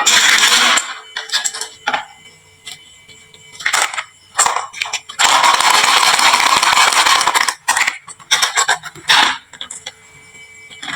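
Marbles rolling down a wooden marble-run slope, a steady rattling rumble in two long runs, one at the start and one about five seconds in. Between the runs come scattered clicks and clacks of marbles knocking and dropping.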